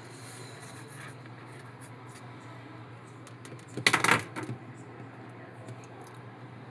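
A brief rattling clatter of hard kitchen objects being handled, about four seconds in, over a steady low hum.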